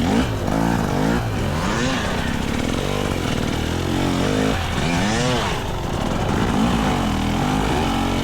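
GasGas EC300 single-cylinder two-stroke dirt bike engine revving up and down as the throttle is worked, its pitch rising and falling every second or so, with a higher rev about five seconds in.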